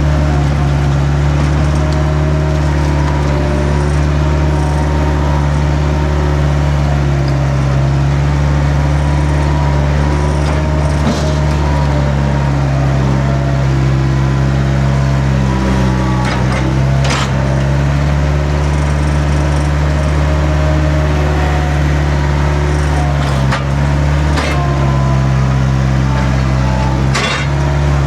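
Skid steer engine running steadily under load, with a few sharp knocks spread through it.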